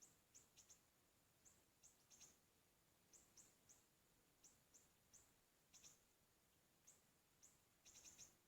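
Siri-siri bird calls: a series of faint, short, high, thin chirps, each dipping slightly in pitch, at irregular intervals, with a quick run of them near the end.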